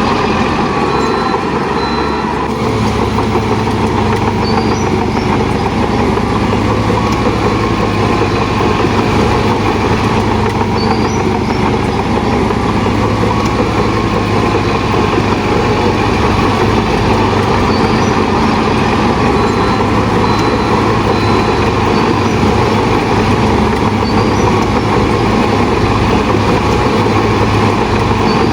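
Heavy diesel engine of earthmoving machinery running steadily at working speed, its note stepping up slightly about two seconds in.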